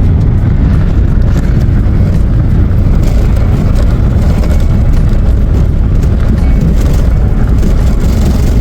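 A car driving along: a steady, loud, low rumble of road and wind noise.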